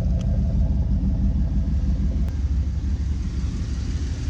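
1988 Pontiac Firebird Formula's 305 small-block V8 with tuned port injection and a Magnaflow exhaust, running steadily with a low exhaust rumble.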